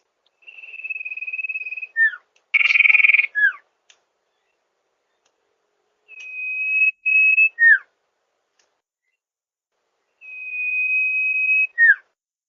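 Sirpu (sirdung) bird calling. Three times it gives a long, steady, high whistle followed by a quick downward note. About two and a half seconds in there is a louder, harsher note.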